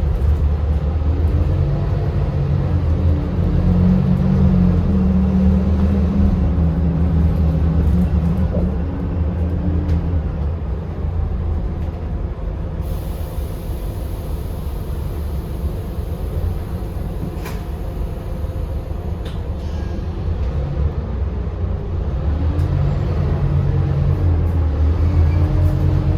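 Scania K280UB city bus under way: its 9.3-litre five-cylinder Scania DC9 diesel runs with a deep, steady note over a gear whine from the ZF EcoLife six-speed automatic that slides down and up in pitch. The bus eases off in the middle, then pulls harder again near the end as the whine climbs.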